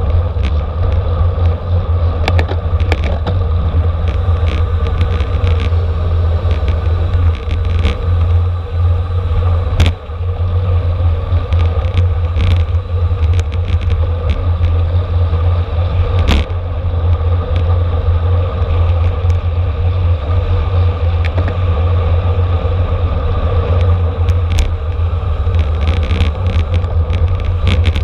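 Wind buffeting the microphone of a racing bicycle's camera at speed, a heavy steady rumble, over a constant hum of tyres and drivetrain and scattered clicks and knocks from the bike.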